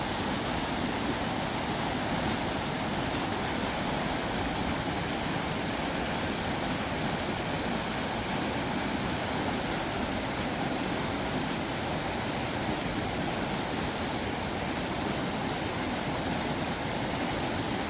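Steady rushing of a mountain river flowing over rocks, an even noise with no breaks.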